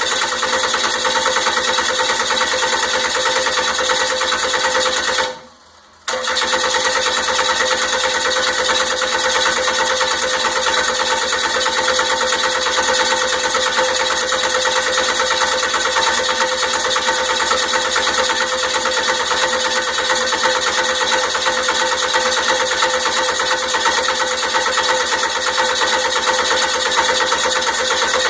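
Rebuilt 12-valve 5.9 Cummins diesel turning over on the starter without firing, a long steady crank that stops briefly about five seconds in and then goes on. The engine won't start; the owner suspects the timing.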